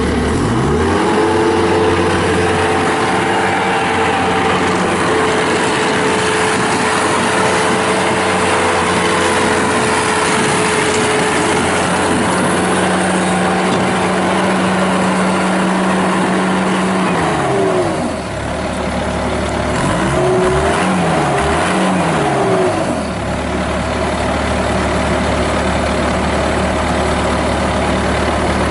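Bobcat T190 skid steer's turbocharged Kubota 2607 diesel engine is throttled up from idle to high rpm in the first second and held there. Around 17 seconds it drops back to idle, is briefly revved up and down again a little later, then settles to a steady idle.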